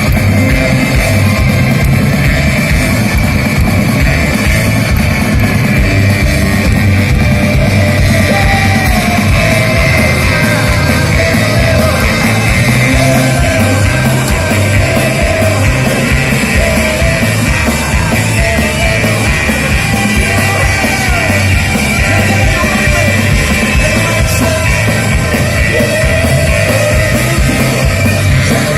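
Live rock band playing loudly: a steady drum-kit beat under guitars, with voices singing and shouting over it from about eight seconds in.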